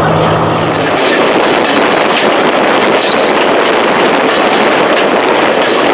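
Passenger train running on the track, heard from an open carriage door: loud wheel-and-rail clatter mixed with the rush of air past the doorway.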